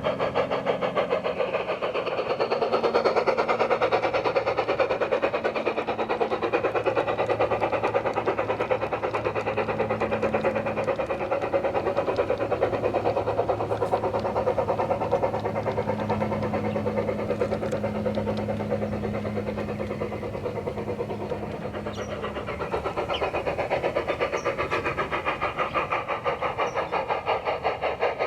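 Battery-powered large-scale garden railway locomotive running along the track: a steady engine-like hum with a fast, even pulsing, easing off slightly near the end.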